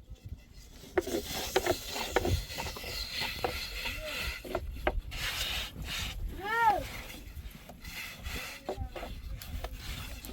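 Rubbing and scraping with scattered small knocks, and one short animal call about six and a half seconds in that rises then falls.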